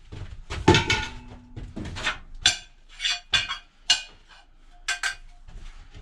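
Scrap copper and brass fittings clanking and clinking as they are handled and dropped, a string of sharp metal knocks, some ringing briefly.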